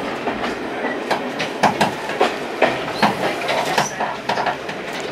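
Passenger train carriage running over jointed track, heard from inside the carriage: a steady rumble with irregular sharp clicks and knocks as the wheels cross rail joints and points.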